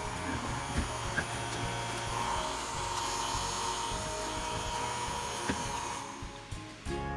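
Homemade vacuum cleaner's small motor running with a steady whine, with a few light clicks. It cuts off just before the end.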